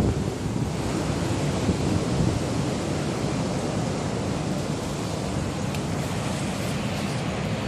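Typhoon wind blowing hard and steadily, a dense rushing noise with wind buffeting the phone's microphone.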